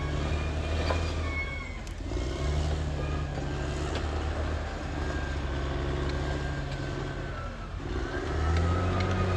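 Caterpillar D6R XL bulldozer's diesel engine running under working load, easing off twice and then pulling harder and louder near the end, with thin high whining tones over the engine.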